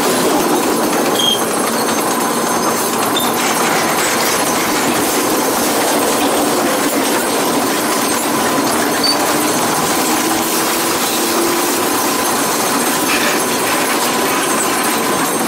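Freight train cars rolling past close by: a loud, steady rush of steel wheels on rail from covered hoppers and tank cars, with faint wheel clicks over the rail joints.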